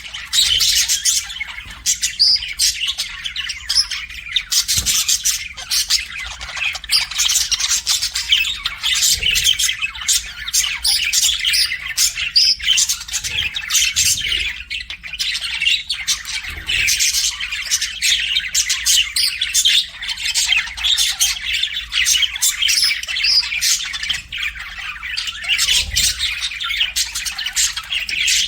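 Several pet budgerigars chattering and chirping, a dense, continuous run of rapid warbles and squawks.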